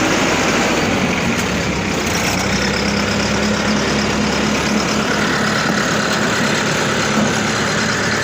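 A diesel engine running steadily, its hum settling onto a steady pitch about two seconds in.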